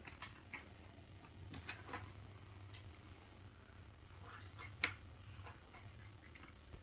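Faint, scattered clicks of small plastic Lego pieces being picked up and handled, with one louder click a little under five seconds in.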